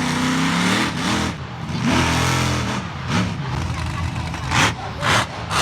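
Monster truck engine revving, its pitch climbing and falling twice. Near the end come three short loud bursts.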